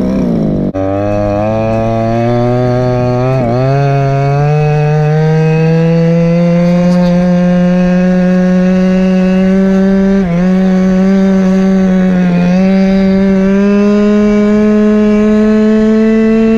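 Go-Ped scooter's small two-stroke engine, a Chongyang CY26RC, running under way. Its pitch drops sharply just under a second in, then rises slowly and steadily, with short dips about three and a half, ten and twelve and a half seconds in.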